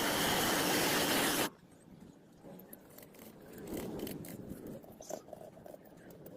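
A loud, even spray-like hiss that cuts off sharply about a second and a half in, followed by faint scattered clicks and scrapes.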